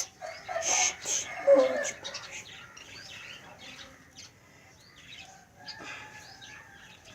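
Small cage birds chirping, many short high chirps scattered throughout, with some louder handling and fluttering in the first couple of seconds.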